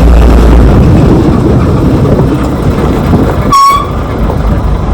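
Loud, steady rumble of a vehicle ride on a rough road, heavy in the low end, with a brief high beep about three and a half seconds in.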